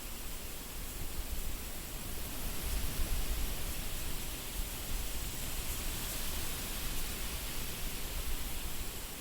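Wind blowing steadily, a rushing hiss with an uneven low rumble that swells briefly about three seconds in.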